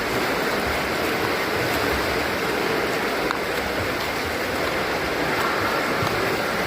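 Steady splashing and churning of water in a swimming pool, heard as an even wash of noise.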